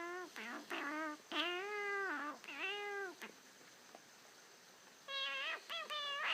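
An animal's series of drawn-out, meow-like cries, each bending in pitch. Several come close together in the first three seconds, the longest lasting about a second, then a short pause and three quicker cries near the end.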